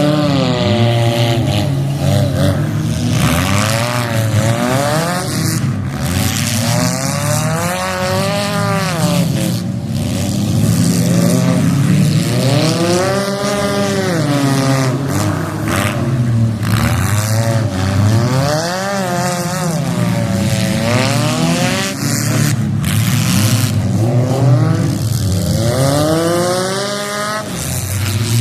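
Demolition derby cars' engines revving up and down again and again as they drive and ram in the arena, with a few sharp bangs from impacts.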